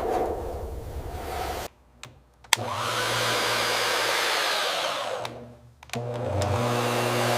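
Steady rushing hiss of a motorised cleaning tool with a low motor hum underneath, broken twice by short drops to near silence with a click.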